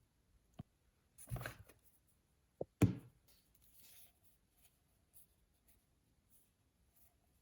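Hands handling small toy packaging: a light tap, a brief rustle of packaging, then two knocks close together as something small is set down, the second the loudest, followed by faint rustling and small ticks.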